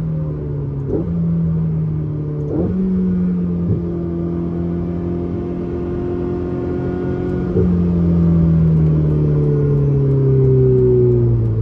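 Ferrari 488's twin-turbo V8 running under way, heard from inside the cabin, with a few quick gear changes that each make the engine note jump in pitch. In the last few seconds the note slowly falls as the car slows.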